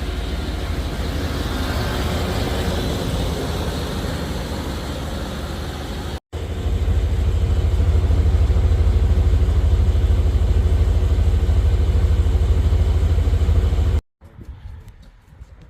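The 1994 Chevrolet Blazer's 5.7-litre 350 V8 running steadily, heard in two cuts. From about six seconds in it is louder and deeper, then it cuts off abruptly about a second and a half before the end.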